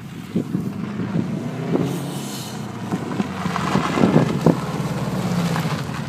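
Subaru Impreza's flat-four boxer engine revving hard as the car is driven fast over loose gravel, growing louder as it comes close and passes, loudest about four seconds in. Sharp cracks and crackles stand out around the closest pass.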